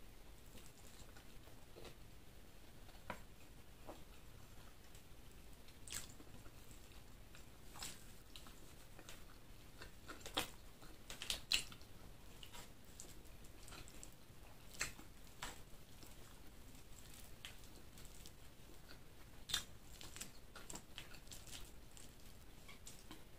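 A person chewing food close to the microphone, with quiet mouth sounds and scattered sharp clicks and smacks, the loudest a cluster about halfway through.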